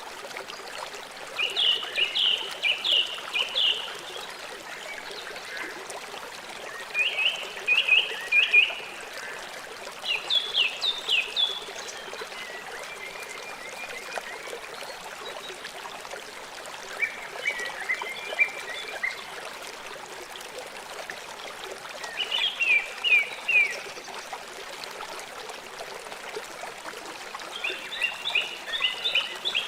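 River water flowing steadily. A frog calls over it in trains of about six to eight short, sharp pulses, each train lasting one to two seconds and repeating every five or six seconds.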